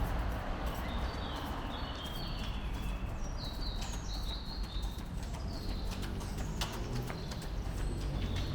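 Footsteps on a park path, with birds singing in short chirping phrases over a low background rumble.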